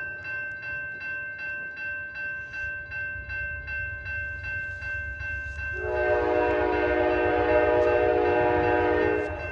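Amtrak P42 diesel locomotive arriving: its bell rings steadily with evenly spaced strikes, then about six seconds in the air horn sounds one long blast of about three and a half seconds over the rising rumble of the engine and train.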